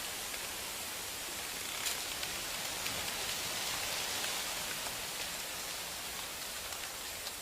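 Steady hiss of a snowstorm: falling snow and wind, without speech, with a faint tick about two seconds in.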